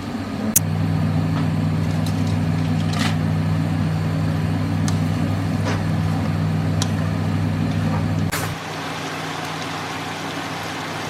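Steady electric hum of a household appliance motor, switching on with a click about half a second in. It drops to a quieter hum with a second click about eight seconds in.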